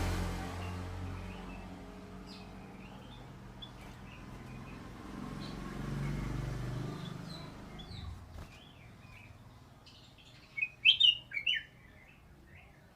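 Sooty-headed bulbul calls: short, scattered chirps, then a loud cluster of several quick notes near the end. A low rumble runs underneath, stronger at the start and again in the middle.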